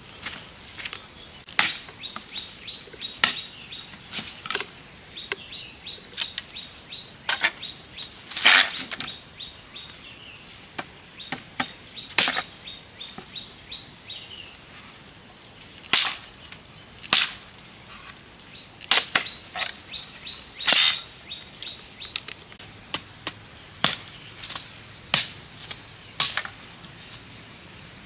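Irregular sharp clicks and snaps, often a second or two apart, some much louder than others, over a steady high-pitched whine and a fast run of faint ticking that fade out in the last few seconds.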